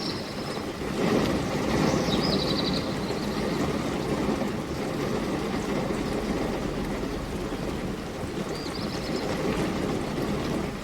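Steady, heavy rain falling, a dense rushing hiss that swells about a second in. A few short high chirps sound near the start and again near the end.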